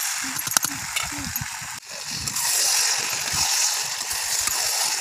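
Mixed vegetable curry sizzling in a metal wok as a spatula stirs through it, with a sharp knock of the spatula on the pan about half a second in.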